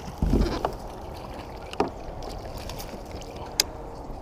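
Handling noise in a kayak: a dull knock just after the start, then a steady low rush of wind and water against the hull with a couple of sharp clicks.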